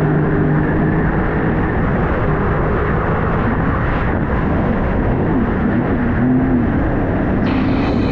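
Sea-Doo RXP-X 300 jet ski's supercharged three-cylinder engine running at speed over the water, with heavy wind and water noise; the engine pitch wavers a little partway through.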